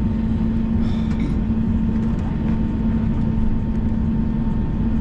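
Airbus A321 cabin noise with the jet engines at idle as the airliner taxis: a steady rumble with a constant hum running under it.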